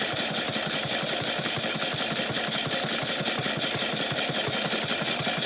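Washing machine running with a big rock inside the drum, a steady fast rattle and clatter.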